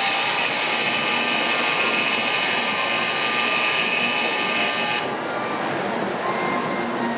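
Shinkansen platform departure bell ringing steadily, a high-pitched electric ring that cuts off suddenly about five seconds in, signalling that boarding is over before the train leaves.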